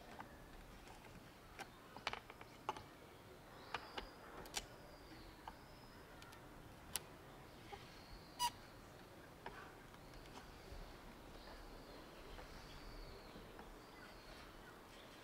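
Scattered short, sharp bird chirps and a few faint, thin, high calls that bend in pitch, over quiet background hiss.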